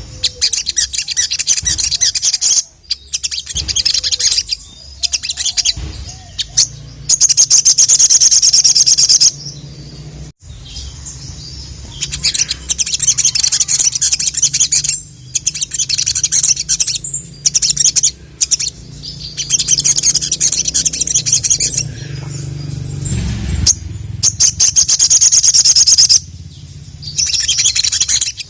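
Ruby-cheeked sunbird (sogok ontong) singing in full song: fast, high, chattering trills in bursts of a few seconds each, with short pauses between them. A steady low hum runs underneath.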